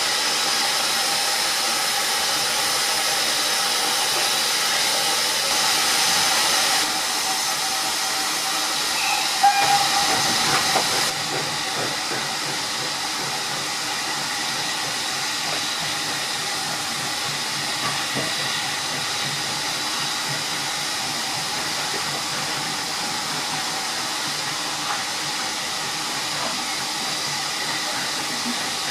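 Steam locomotive hissing steadily as steam escapes, with a brief louder moment about ten seconds in before the hiss settles slightly quieter.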